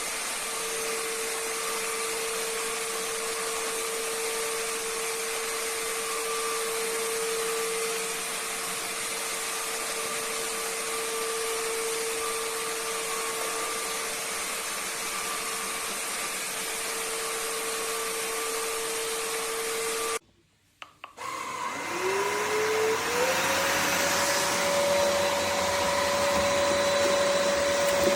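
Vexilar V9PRO cordless stick vacuum running with a steady motor whine over airflow noise. About two-thirds of the way through it cuts out for about a second, then starts again, its pitch climbing over a couple of seconds to a steady, slightly higher whine.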